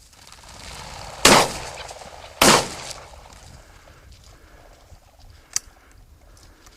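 Two shots from a 20-gauge over/under shotgun, about a second apart: a double on flushed chukars. A sharp click follows a few seconds later.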